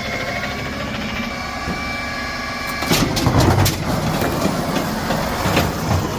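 Garbage truck's automated side-loader arm collecting a green-waste cart: a steady hydraulic whine for about three seconds, then a louder rumble with several sharp knocks and rattles from about three seconds in as the cart is tipped and shaken out.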